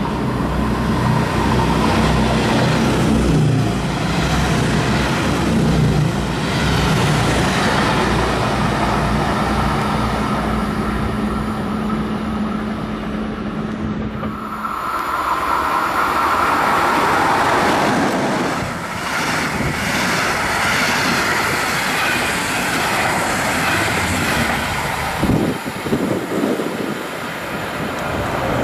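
DSB MF (IC3) diesel multiple unit running through a station at close range: a steady low engine hum for about the first half, then a rushing noise of wheels, rails and air as the cars go by.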